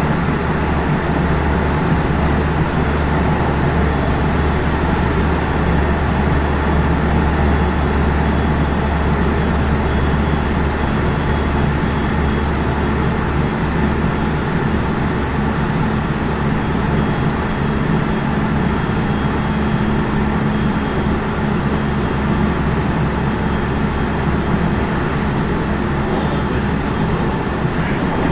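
Onboard running sound inside the motor car of a JR West 207 series 0 electric multiple unit with a power-transistor VVVF inverter drive: a steady rumble of wheels and traction motors with a faint high whine, running at an even pace without speeding up or slowing down. Brief high hissing near the end.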